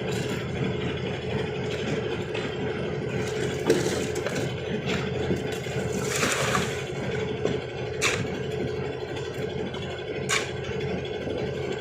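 Engine of construction machinery running steadily, with a few sharp knocks and a brief burst of rougher clattering about six seconds in.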